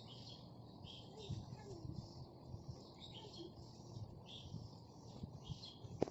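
Small birds chirping, short high calls repeating every half second to a second over a steady low background, with a sharp click near the end.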